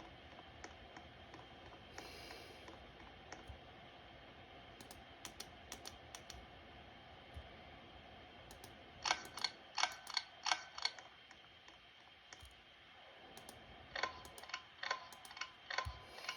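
Ceiling fan running, with scattered light ticks and two runs of about five sharp, ringing clicks at roughly two a second, one in the middle and one near the end.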